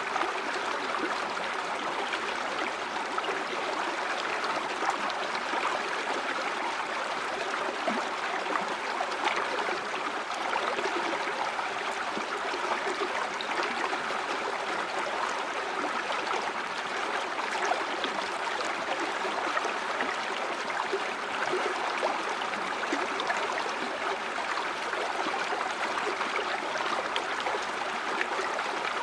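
River water flowing and gurgling steadily over stones, an even rush with small splashes.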